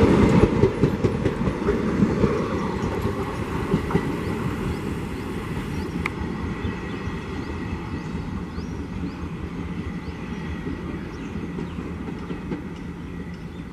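Coaches of an Indian Railways express train rolling past, wheels clattering on the rails, the sound loudest at first and fading steadily as the train moves away.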